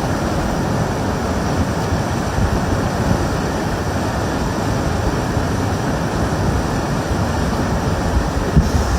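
Fast river current rushing over rocks: a loud, steady rush of water with no break.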